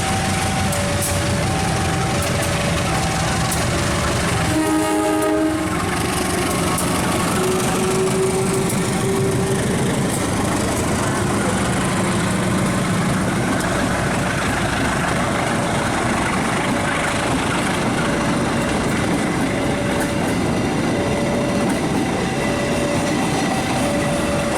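A train passing close by, with a steady rumble and wheel noise. A horn sounds briefly about five seconds in. A two-note alarm alternates between a higher and a lower tone at the start and again from about fifteen seconds on.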